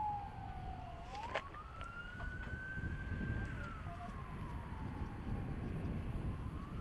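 Emergency vehicle siren wailing in slow sweeps: it falls, rises about a second in, holds high, then falls again, over a low rumble.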